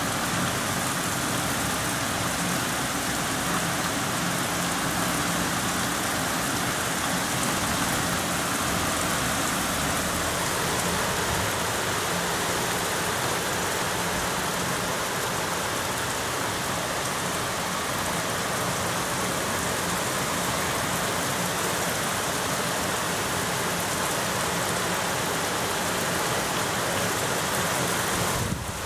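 Heavy thunderstorm rain pouring steadily in a continuous hiss.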